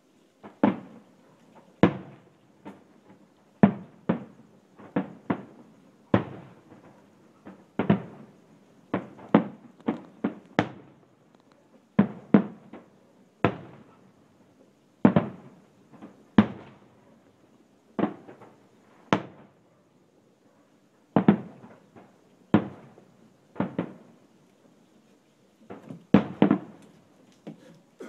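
Fireworks going off: an irregular series of bangs, about one a second and sometimes two in quick succession, each with a short echoing tail.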